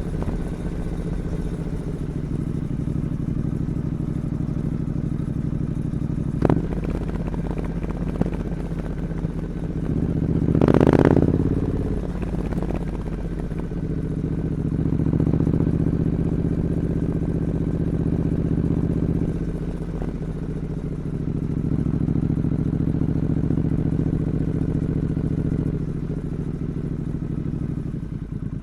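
Triumph Scrambler 900 parallel-twin running steadily through its stock two-into-one exhaust. There is a sharp click about six seconds in and a brief louder rushing noise about eleven seconds in.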